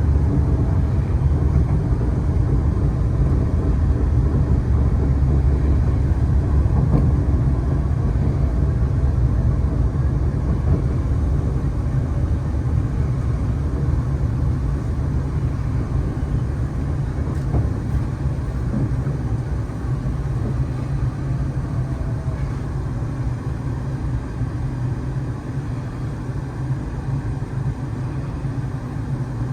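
MTR East Rail Line R-train electric multiple unit running on the line, a steady low rumble of wheels and traction that grows gradually quieter toward the end.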